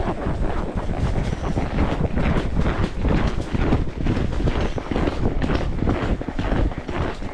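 A horse moving along a trail under a rider: a busy, irregular run of hoof knocks and tack rustling, over a steady wind rumble on the microphone.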